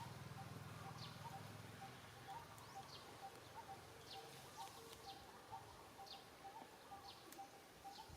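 Faint birdsong: one bird repeats a short note about two to three times a second, and other birds give scattered high, falling chirps.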